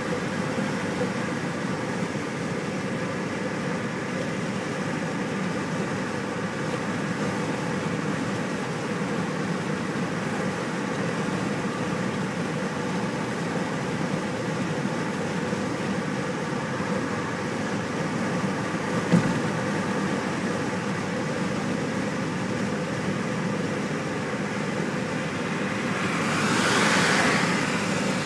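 Steady engine and road noise of a car driving along a highway. A single sharp knock comes about 19 seconds in, and near the end a hiss swells and fades.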